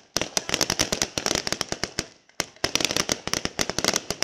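Fireworks crackling: a dense, rapid run of sharp pops and cracks, then a brief lull about two seconds in before a second run.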